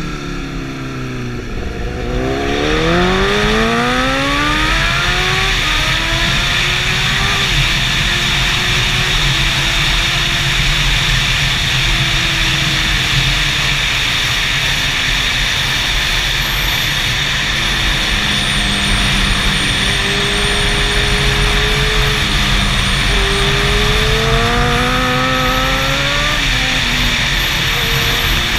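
Superbike engine accelerating hard, its pitch climbing steeply about two seconds in, then running at high revs with slower rises and falls in pitch, under a steady loud rushing noise.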